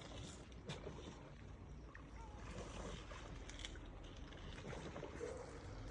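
Lakeside ambience: water lapping with a low wind rumble, and a few faint, brief seagull cries.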